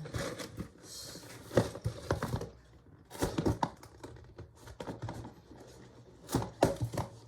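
A LEGO set's cardboard box being opened and its contents handled: crinkling and tearing with irregular clicks and knocks.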